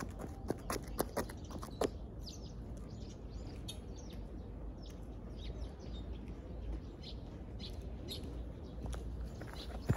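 Small birds chirping, with many short high calls scattered over a faint steady background. A few sharp clicks or taps come in the first two seconds, and one more near the end.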